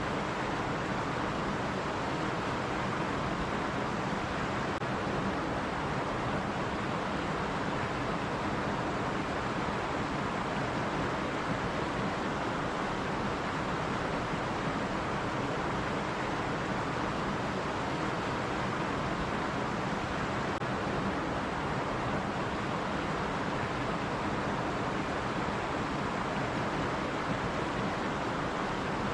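Stream water running and rushing steadily, an even unbroken wash of sound.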